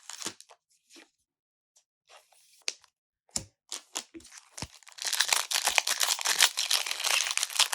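A foil Pokémon booster pack wrapper being torn open and crinkled. It starts about five seconds in, after a few scattered light clicks and rustles of cards being handled.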